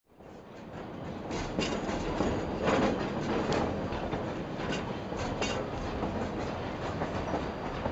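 Narrow-gauge steam train's coaches rumbling and clattering over the rail joints, heard from on board. The sound fades in over the first second or so and then runs steadily, with irregular sharp clacks.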